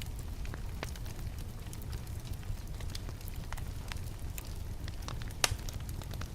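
Wood fire in a fireplace crackling: a steady low rumble with scattered sharp pops, one louder pop about five and a half seconds in.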